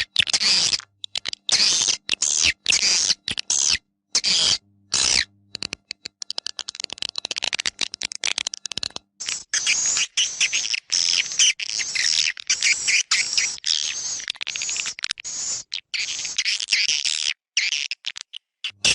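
Swiftlet calls from a lure recording for swiftlet houses: fast strings of short, high chirps and clicks, in separate bursts at first, then a denser run of chattering from about halfway through.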